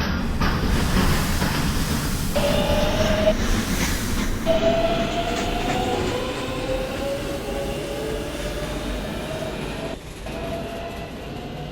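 Subway train running between stations, heard from inside the car: a steady rumble of wheels on rail, with a whine that slowly rises in pitch. It gets quieter shortly before the end.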